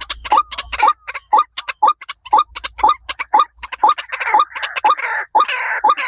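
A bird calling over and over, about two short rising calls a second, each with a sharp click. The calls turn harsher and noisier for the last two seconds.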